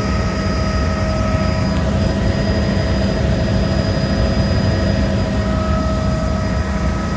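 Helicopter in flight, heard from inside the cabin: a steady, loud drone of engine and rotor with a constant high whine over it.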